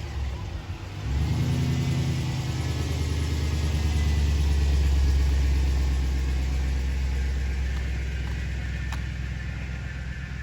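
An engine running steadily with a low, even hum that grows louder over a few seconds and then slowly eases off.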